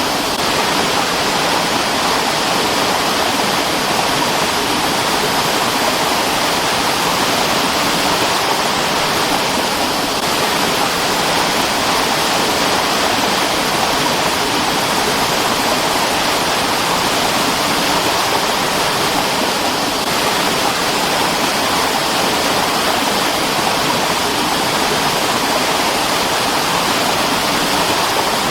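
Mountain stream: loud, steady rush of running water with no break or change.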